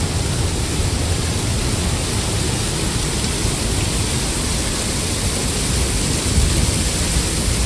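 A large waterfall rushing: a really loud, steady wash of water noise with a low rumble underneath.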